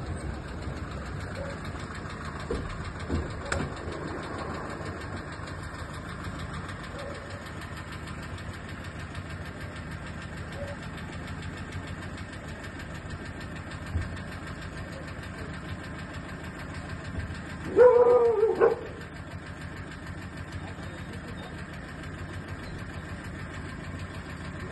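A vehicle engine idling steadily, with a brief loud pitched sound about eighteen seconds in.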